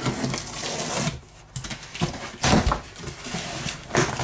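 Packaging of a hobby kit being handled: rustling with a few knocks, strongest about two and a half seconds in and again near the end.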